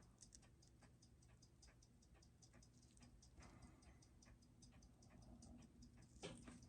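Faint, steady ticking of a Seiko 6R15 automatic watch movement's escapement, about six ticks a second, while its large beat error is being adjusted. A brief louder noise comes near the end.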